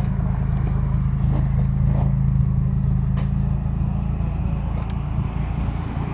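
Car engine running steadily, a low even hum, with a few faint clicks on top.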